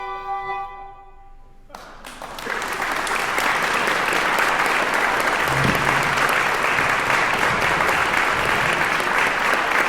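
A flute ensemble's final held chord dies away, and about two seconds in the audience breaks into steady applause.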